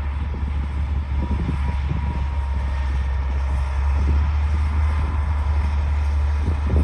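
Bulldozer's diesel engine running steadily, with a deep low drone.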